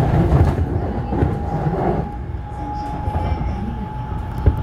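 Airport Railroad commuter train running along the track, heard from inside the carriage: a steady low rumble of the ride, with a steady high tone coming in about a second in and one sharp click near the end.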